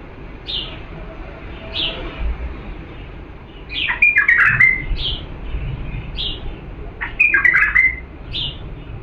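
Diyala bulbul singing: two short bursts of quick, falling whistled notes, about four and seven seconds in, with single short high notes between them.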